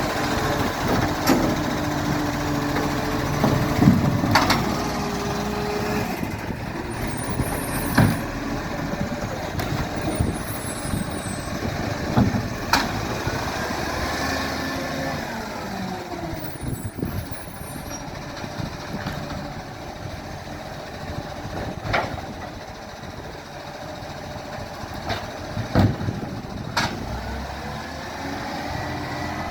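Council garbage truck on a collection run: diesel engine running, with sharp knocks every few seconds and a whine that rises and falls near the middle.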